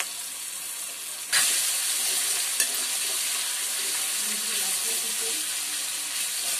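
Garlic paste going into hot mustard oil with fried onions in a kadai. The frying hiss jumps suddenly to a loud sizzle a little over a second in and keeps sizzling steadily as a spatula stirs it, with one sharp clink of the spatula midway.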